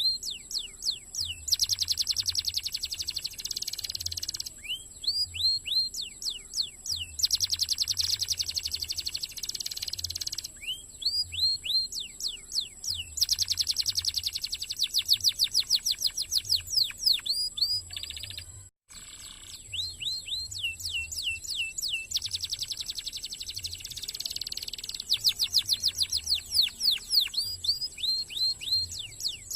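Domestic canary singing fast, tight trills: rapid runs of repeated rising and falling whistled notes, with the phrases changing every second or two. The song breaks off for a moment about two-thirds of the way through.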